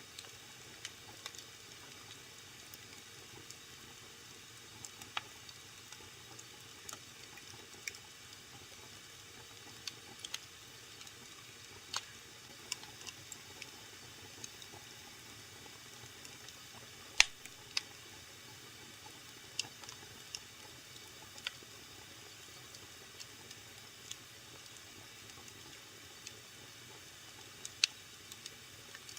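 Wood fire burning in a fireplace: a soft steady hiss with irregular sharp crackles and pops, a louder pop about two-thirds of the way through.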